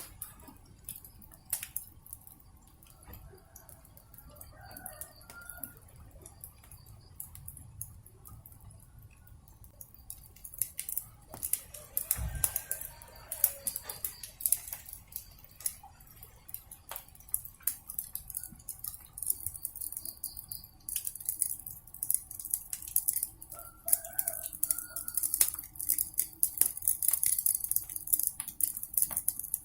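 Wood fire crackling and popping, with a steady hiss that grows louder in the second half and a dull thud about twelve seconds in.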